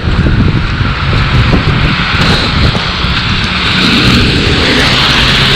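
Road traffic on a wet, slushy street: a steady rush of tyre hiss over a low rumble, swelling toward the end as a vehicle passes close.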